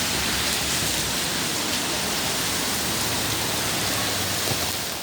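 Heavy rain pouring down in a storm: a dense, steady hiss with a low rumble beneath.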